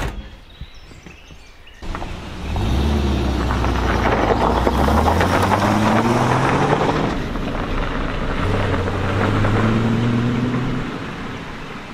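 A car door slams shut, and about two seconds later a classic car's engine starts and the car pulls away, the engine note rising through the gears three times before fading as it drives off.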